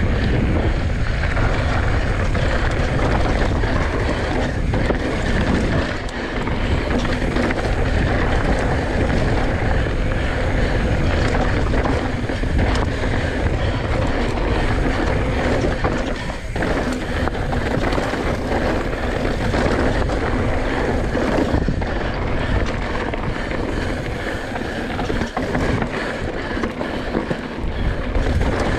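Wind buffeting the bare microphone of a chest-mounted GoPro Hero8 on a fast mountain bike descent. Underneath run the steady rush of tyres and a constant rattle of knocks as the bike runs over the trail.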